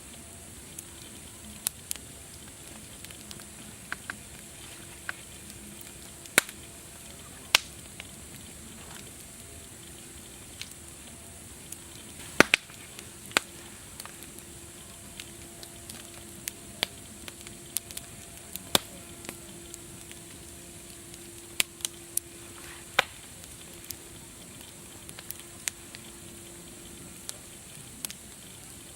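Wood fire crackling: irregular sharp pops and snaps over a steady hiss, a few of them much louder, around six, seven and twelve seconds in.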